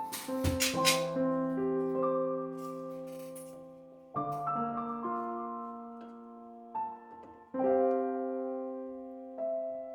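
Slow, gentle solo piano music, with sustained chords struck about four and seven and a half seconds in. A few sharp clicks sound in the first second.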